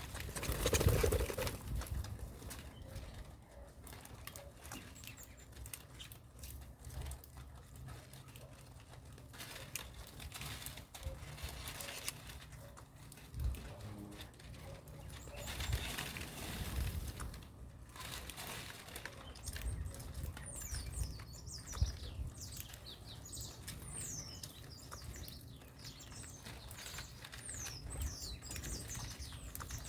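Birds fluttering their wings, with bursts of flapping about a second in and again midway. In the second half come many short, high, falling chirps.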